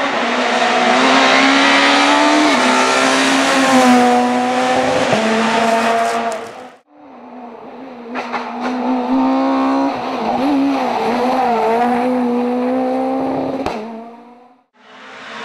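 Rally car engines running hard at high revs in two separate runs. Each holds a steady high pitch with short dips and wobbles as the driver lifts and shifts, and a few sharp cracks come in the second run. The sound drops out about seven seconds in and again near the end, where one take ends and the next begins.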